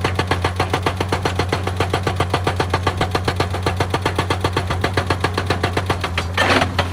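Excavator-mounted hydraulic rock breaker hammering stone at about ten blows a second over the steady hum of the diesel engine. The hammering stops about six seconds in and is followed by a short burst of noise.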